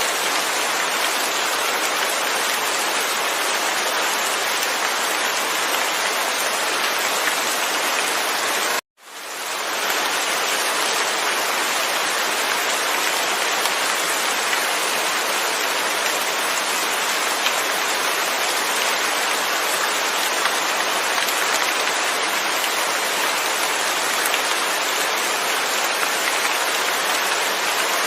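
Steady rain falling, an even hiss with no thunder. About nine seconds in it cuts out for an instant and fades back in over about a second.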